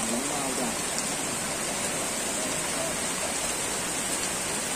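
Steady rain falling on an open grass field, a continuous even hiss. Faint distant shouting voices come and go beneath it.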